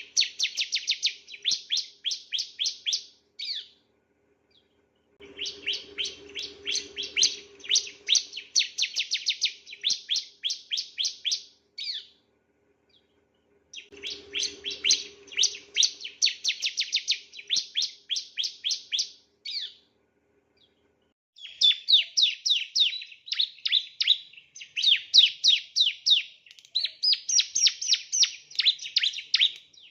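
Male bar-winged prinia (ciblek) singing in long phrases of rapid, high, repeated chirping notes, several a second. The phrases are separated by pauses of about two seconds, and the last phrase runs on without a break.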